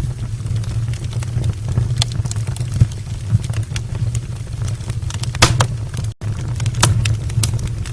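Wood fire burning in an open brick fireplace: a steady low rumble with scattered sharp crackles and pops, a few louder pops in the second half.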